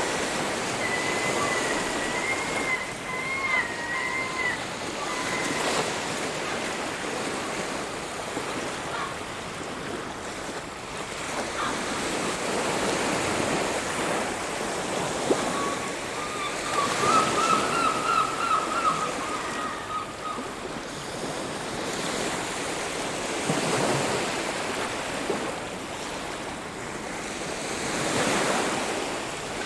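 Ocean waves washing onto a beach, the surf swelling and falling back every few seconds. A bird calls twice in a thin, wavering tone, early and again just past the middle.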